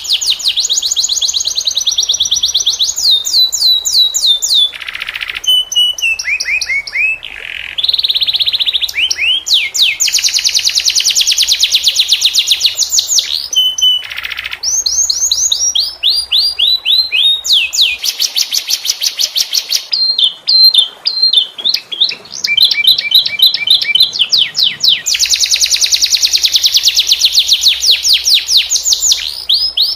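Domestic canary singing continuously: long, high-pitched rolling trills of very rapid repeated notes, alternating with phrases of falling, sliding notes.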